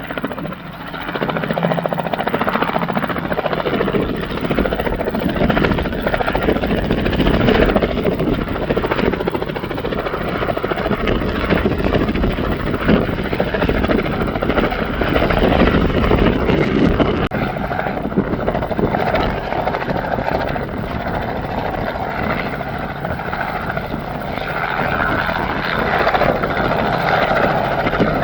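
Robinson R44 helicopter coming in to land: a steady, loud rotor and piston-engine noise that swells and eases slightly in level.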